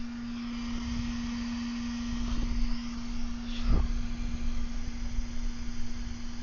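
Portable electric fan running with a steady hum, its air stream buffeting the microphone with a low rumble.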